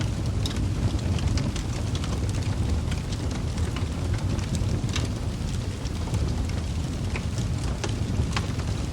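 Wood fire burning in a fireplace: a steady low rush of flame with frequent small crackles and pops from the burning logs, scattered irregularly.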